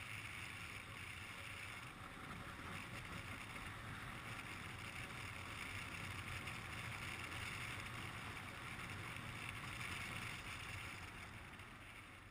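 Steady wind and engine noise of a motorcycle on the move, picked up by a microphone on the bike or rider, fading out near the end.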